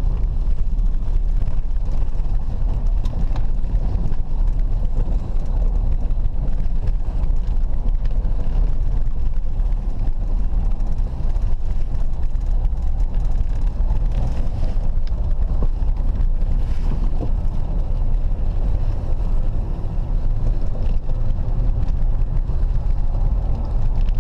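Cadillac Eldorado's big V8 running steadily as the front-wheel-drive car is driven slowly through snow, heard as a steady low rumble from inside the cabin.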